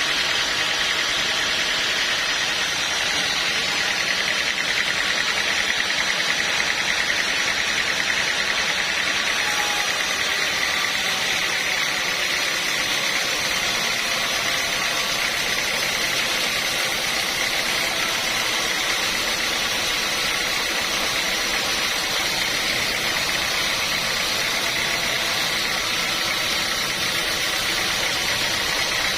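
Sawmill machinery running steadily: a constant mechanical drone with a faint high whine.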